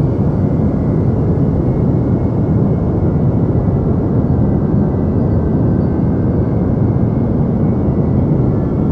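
Steady deep noise for sleep, weighted toward the low end like a rumbling hush, even and unchanging, with faint thin steady tones high above it.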